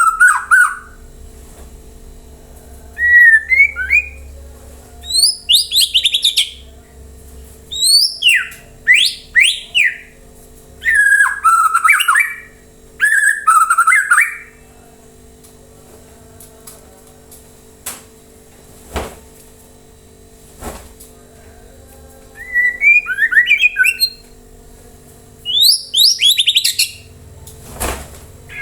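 White-rumped shama (murai batu) singing in bursts of loud, clear whistled phrases that slide up and down in pitch, with a quieter gap in the middle broken by a few sharp clicks.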